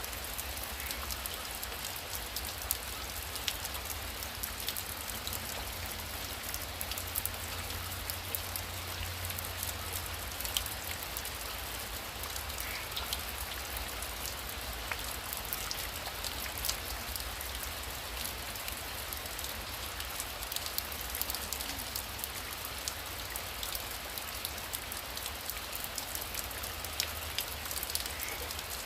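Heavy rain falling steadily, with a dense patter of individual drops ticking sharply on a surface and a low rumble underneath.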